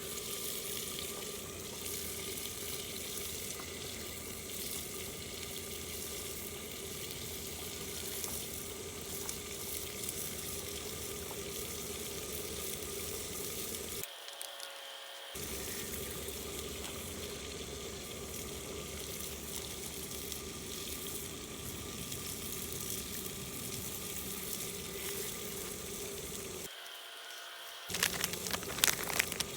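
Food sizzling steadily in hot fat over a wood fire, with a few sharp knocks near the end.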